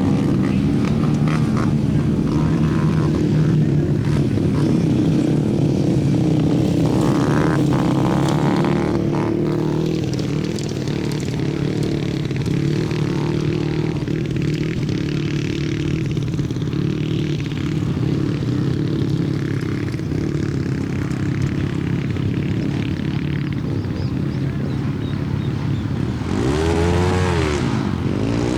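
A 125 cc engine running steadily at a fairly constant speed. Near the end its pitch dips and rises again twice.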